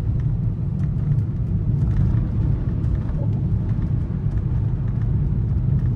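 Steady low road and tyre rumble inside the cabin of a 2024 Volkswagen Atlas driving on snowy roads, with faint light ticks now and then.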